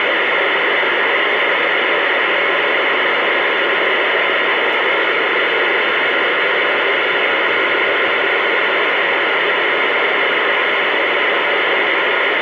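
CB radio static: a steady, even hiss from the receiver with no voice on the channel.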